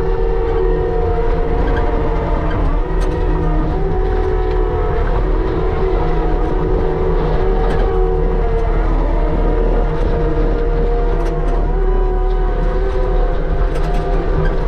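Case skid steer running steadily at working speed, a loud continuous drone with a whine that wavers slightly in pitch.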